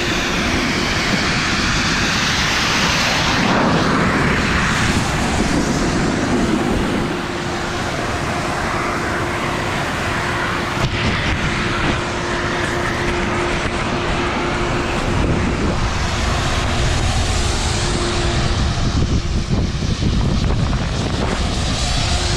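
Loud, steady wind roar buffeting the camera microphone during a snowboard run down the slope.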